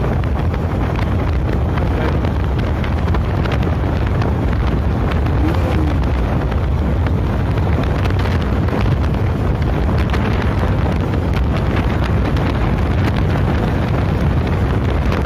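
Motorcycle riding at speed, heard mostly as heavy, steady wind noise on the microphone, with the engine and road noise buried underneath.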